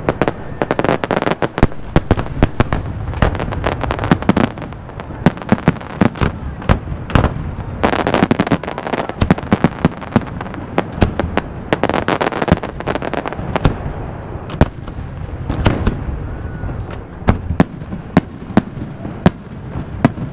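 Fireworks and firecrackers going off in rapid, irregular bangs and crackles, many overlapping, over a continuous rumble.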